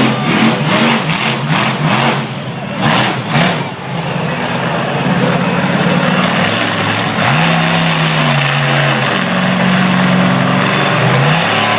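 Monster truck engine revving in quick repeated blips, then holding a steadier, loud note that dips and rises in pitch.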